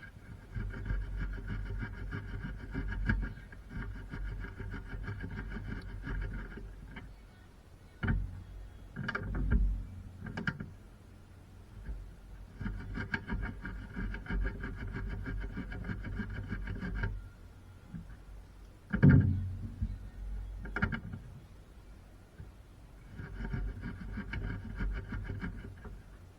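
A small motorised tool running in three bursts of several seconds, with a fast, even buzz. Between the bursts come a few sharp knocks, the loudest just before the last third.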